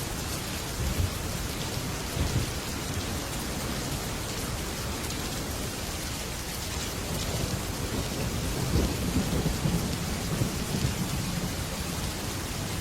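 Heavy rain falling steadily on a metal roof, with thunder rumbling briefly about a second in and again after two seconds, then a longer, louder rumble from about eight to eleven seconds.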